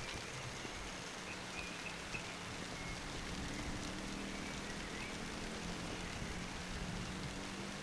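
Steady rain falling, an even hiss without a break. A faint low hum runs beneath it, growing a little about three seconds in.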